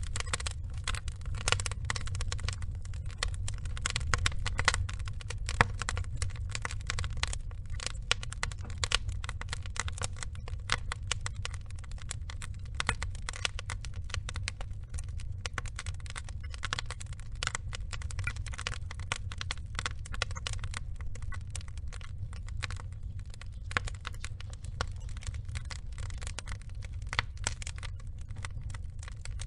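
Burning logs crackling, with many irregular sharp pops and snaps over a steady low rumble.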